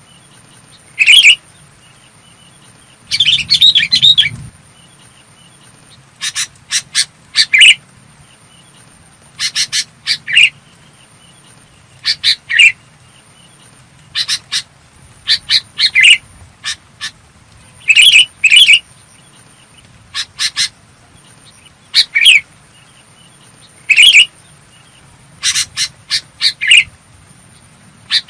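Sooty-headed bulbul calling: short, clear chirping phrases repeated every one to two seconds, with a longer burst of calls about three seconds in.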